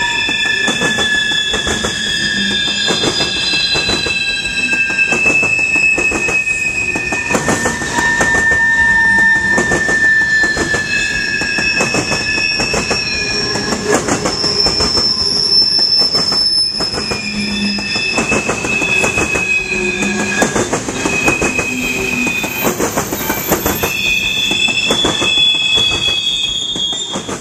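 Railroad cars rolling past, their wheels squealing on the rails in several high, overlapping, shifting tones over a steady run of clacking knocks from the wheels on the track. The sound cuts off suddenly at the end.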